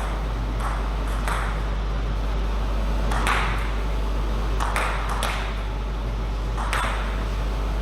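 Table tennis ball clicking off the bats and the table, about six sharp hits at irregular gaps, some in quick pairs, over a steady low hum.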